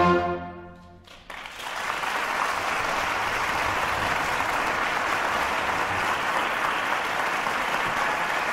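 Background music fades out over the first second. Then minced-meat meatballs fry in hot oil in a pan with a steady sizzle.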